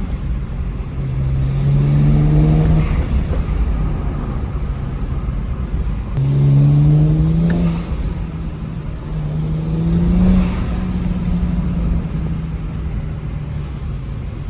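BMW 335i's N54 twin-turbo 3.0-litre inline-six with aftermarket downpipes, accelerating in three pulls. The engine note rises in pitch and breaks off about three, eight and ten and a half seconds in, then holds a steadier, lower drone.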